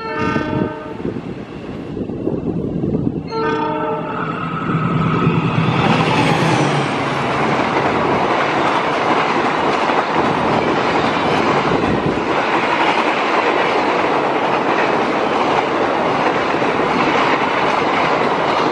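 A diesel locomotive's horn sounds two blasts, a short one at the start and a longer one about three and a half seconds in, as the passenger train approaches. Then the locomotive and its coaches pass close by, with loud, steady wheel-on-rail noise and some clickety-clack from the passing cars.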